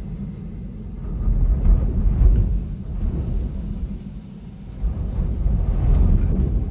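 Storm-force wind gusting, a heavy low rumble that surges twice, about a second in and again near the end.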